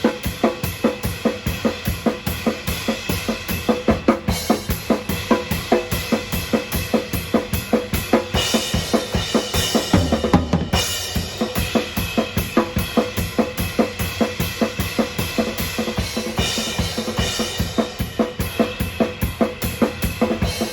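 Acoustic drum kit played live with a steady fast beat of bass drum and snare hits. About ten seconds in a cymbal-heavy wash swells and there is a momentary break before the beat resumes.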